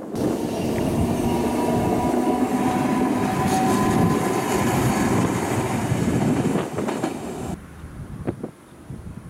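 Hiroden streetcar (tram) passing on its rails, a loud rolling rumble with a steady whine over it, starting abruptly and cutting off suddenly near the end.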